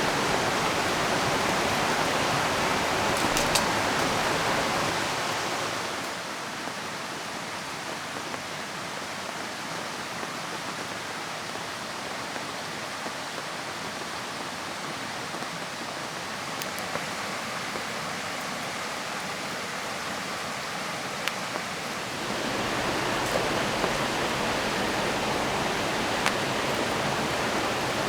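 River water rushing steadily, mixed with rain. The rushing is louder at first, eases down about five seconds in, and swells again about six seconds before the end, with a few light ticks scattered through.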